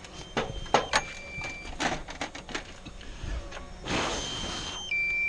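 Electronic beeps: a short steady beep about a second in and a louder, longer one near the end, among light clicks and handling taps. A short hiss comes about four seconds in.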